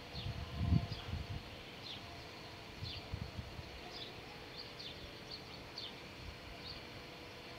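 Small birds chirping: short, high, downward chirps repeated roughly once a second, with low rumbling bumps in the first second and a half and again about three seconds in.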